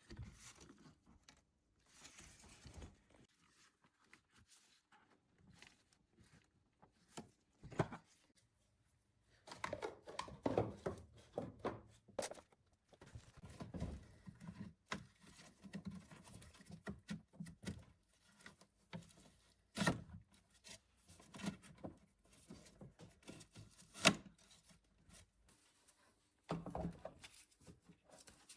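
Scattered knocks, clicks and rustling of things being handled in a small room, with the sharpest knocks about 20 and 24 seconds in.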